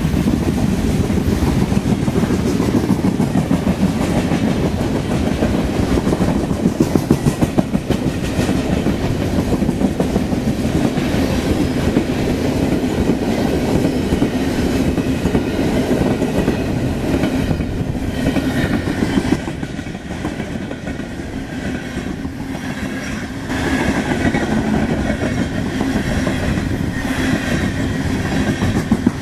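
Loaded freight cars of a CSX trash train rolling past close by: a steady heavy rumble with the clickety-clack of wheels on the rails, easing for a few seconds past the middle.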